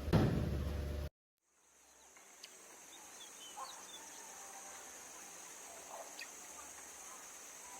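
A steady high-pitched drone of insects such as crickets, with a few short bird chirps over it. It fades in after an abrupt cut from louder room noise about a second in.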